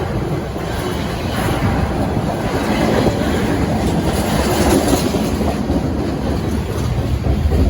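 Train cars rolling past steadily, wheels clattering over the rail joints above a continuous low rumble.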